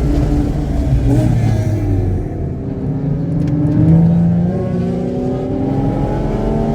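Car engine under hard acceleration on a race track, running cleanly without misfiring. Its pitch falls and the sound dips about two seconds in, then climbs steadily to the end.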